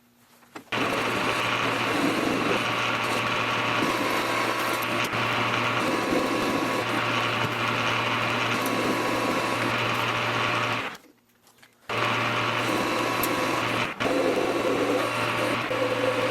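Electric motor-driven shop machine running steadily with a constant low hum. It cuts out for about a second two-thirds of the way through, then starts again.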